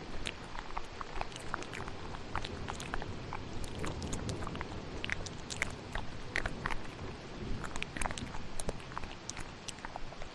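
Layered ASMR mouth sounds, many quick wet clicks and smacks at irregular intervals, over the steady hiss of thunderstorm rain. A low rumble swells around four seconds in.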